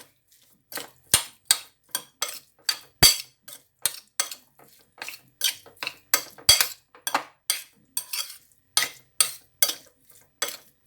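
A utensil clinking and scraping against a bowl in quick, irregular strokes, about two or three a second, while seasoned fish pieces are stirred together.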